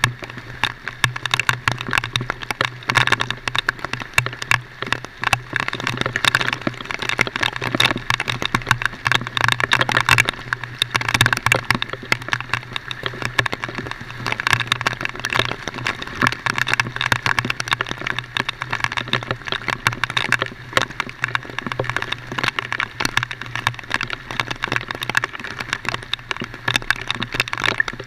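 A vehicle's engine running with a steady low drone, under a constant dense crackle of rain and road noise.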